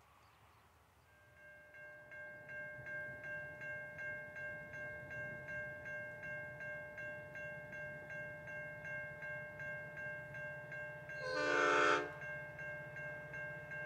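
Approaching freight train led by a G class diesel locomotive: a low rumble builds under a steady ringing that pulses about twice a second. Near the end the locomotive's horn gives one short, loud blast.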